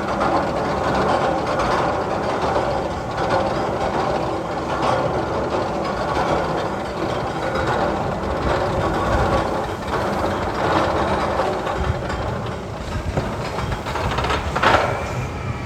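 Steady, loud rumbling and clattering like a rail vehicle running, with a single sharp knock near the end.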